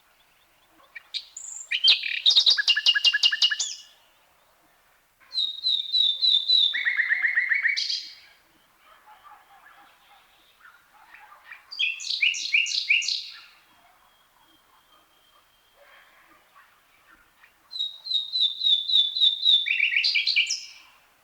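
Common nightingale singing: four separate phrases of fast repeated notes, each two to three seconds long, with pauses of a few seconds between them. Within a phrase the repeated notes often step down to a lower pitch.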